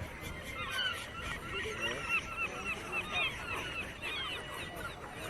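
A dense chorus of many birds chirping at once: short, quick notes rising and falling in pitch, overlapping without pause.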